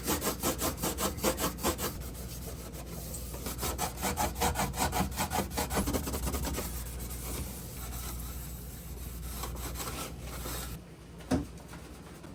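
Sponge scrubbing a fridge surface with soap and water, fast back-and-forth strokes at about four to five a second, working at stains that vinegar and water would not lift. The scrubbing stops about eleven seconds in, followed by a single light knock.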